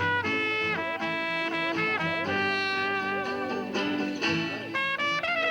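Trumpet playing a melody of held notes over a backing accompaniment with a bass line.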